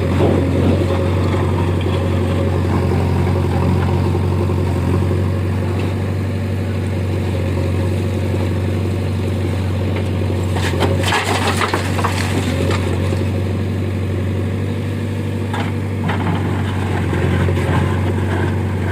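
JCB 3DX backhoe loader's diesel engine running steadily at work, with a low hum. About ten seconds in comes a burst of harsh scraping and crunching, and a shorter one a few seconds later.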